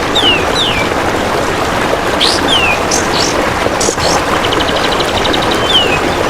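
Songbird calls, short falling whistles and high sharp chirps repeated every second or two, over a loud steady rain-like hiss. A rapid, even insect-like trill of about ten pulses a second comes in for about a second near the end.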